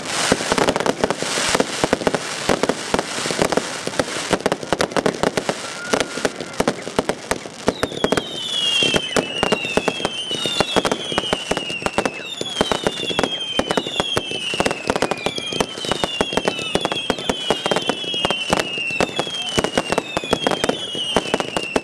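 Fireworks going off: a dense, continuous crackle of many small bangs. From about eight seconds in comes a run of whistles falling in pitch, roughly one a second.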